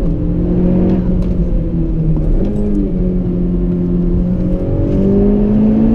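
Honda Civic Type R's turbocharged 2.0-litre four-cylinder engine driven hard, its note climbing under throttle and breaking at gear changes about two seconds in and at the end. A quick rise in pitch after the first change is the driver's own throttle blip on the shift.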